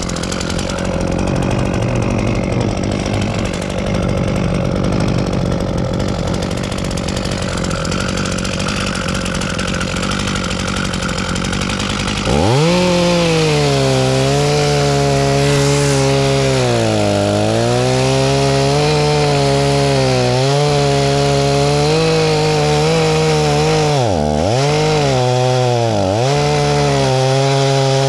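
Chainsaw cutting up a heavy, storm-felled tree trunk. About twelve seconds in it gets louder and runs at high revs, its engine pitch sagging and recovering several times as the chain bogs into the wood.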